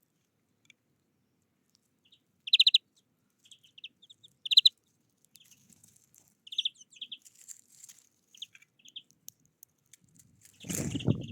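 Small birds chirping, with three loud short trilled calls about two seconds apart and softer chirps between them. A brief burst of rustling noise comes near the end.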